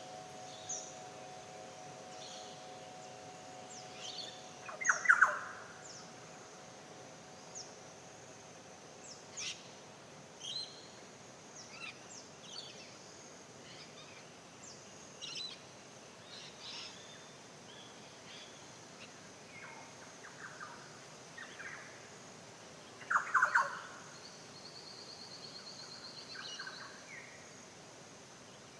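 Several wild birds singing and calling in a forest, with many short high chirps and whistles throughout. There are two louder bursts of calls, about five seconds in and again near the twenty-three second mark, and a buzzy trill shortly after. A faint steady hum dies away in the first few seconds.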